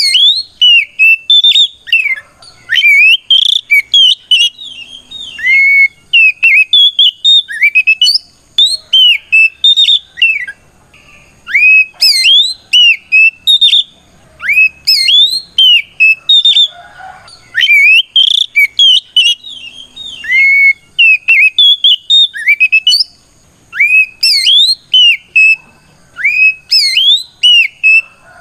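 Oriental magpie-robin (kacer) singing loud, clear whistled phrases of quick rising notes, in bursts with short pauses between them. It is the full 'ngeplong' challenge song of a bird calling out a rival.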